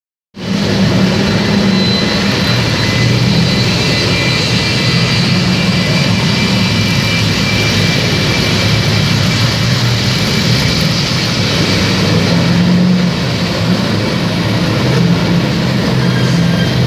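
Loud, steady engine drone, starting abruptly just after the beginning and running on with little change.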